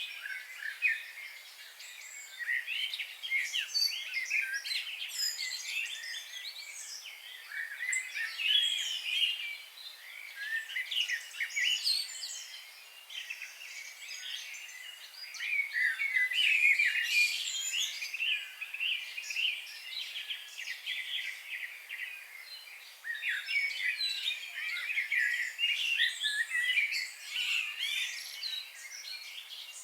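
Several songbirds chirping and singing at once, a dense chorus of short, rapid, overlapping high calls and trills that keeps going with small swells and lulls.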